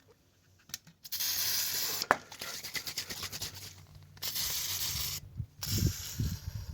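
An aerosol can of starting fluid spraying in a few long hissing bursts with short breaks. Low knocks and handling noises come near the end.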